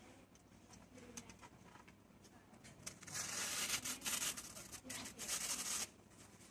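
A bird cooing faintly a few times. About halfway in, a loud rasping noise lasts about three seconds and then cuts off.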